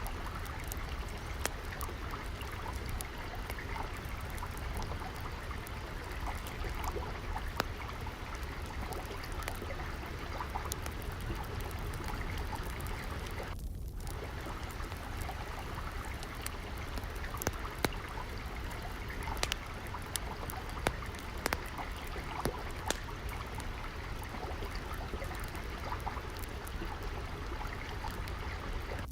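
Steadily flowing, trickling stream water mixed with a wood fire crackling in scattered sharp pops. The water drops out for an instant about halfway through.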